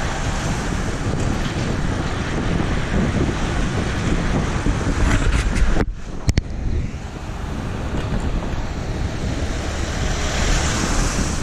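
Wind rushing over a bike-mounted camera's microphone while cycling, with road noise underneath. About six seconds in it briefly cuts out with two sharp clicks.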